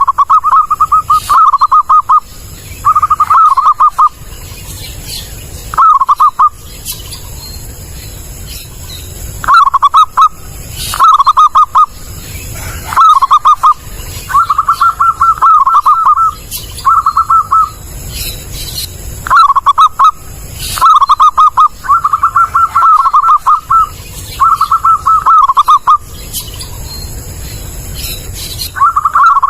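Zebra dove (perkutut) singing its rapid staccato cooing phrases. The phrases come one after another with short pauses and one longer lull a few seconds in.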